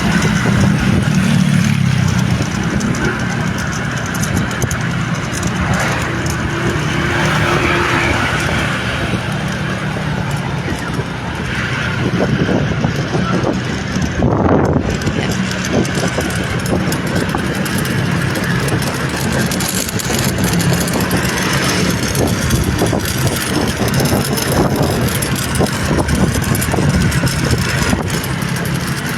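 Steady hum of a vehicle engine with road noise while travelling along a road, with a brief swell about halfway through.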